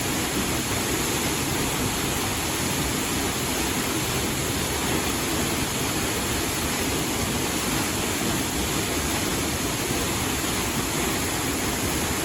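Ginzan River water rushing steadily, a continuous even roar of fast-flowing water.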